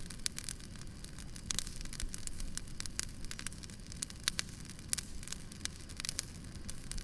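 Wood campfire burning, with irregular sharp pops and crackles over a steady hiss of the flames.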